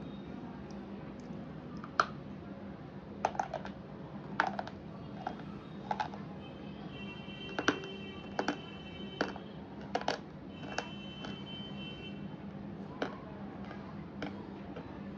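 Crunching of slate pencil pieces: about a dozen sharp, irregular snaps and crunches, loudest about two seconds in and near eight seconds in.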